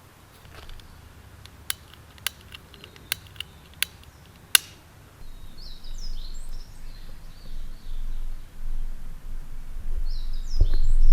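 Six sharp clicks or taps in the first half, then a low steady rumble from about halfway. Over it, small birds chirp twice in quick clusters of high notes, the second near the end.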